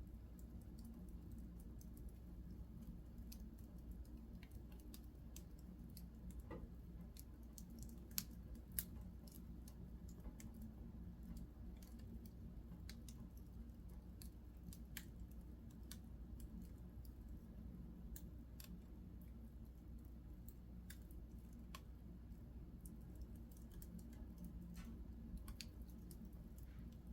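Wood fire crackling in a fireplace: faint, irregular small crackles over a low steady background, with two sharper pops about eight seconds in.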